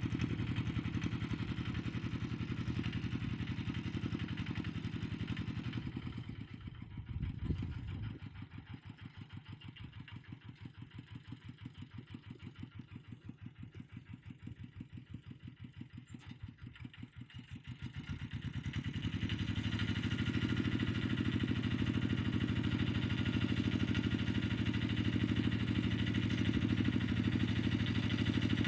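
Tractor engine running steadily while ploughing. About six seconds in it drops lower and its regular firing beat stands out, then it comes back up to full strength about nineteen seconds in.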